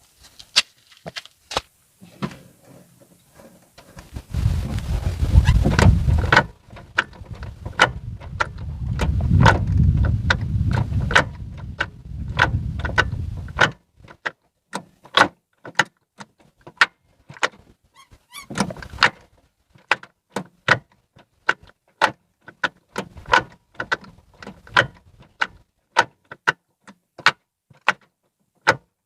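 Ford Fiesta Rocam manual gearbox and shift linkage making a repeated sharp metallic click-crack, about one or two a second, as gears are selected. The owner traces it to play in the gearbox's selector arms. A loud low rumble runs for a few seconds twice in the first half.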